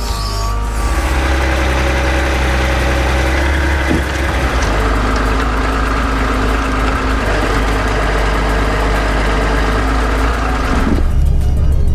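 Logging truck's heavy diesel engine running steadily, with a steady higher whine over it. The sound changes abruptly near the end.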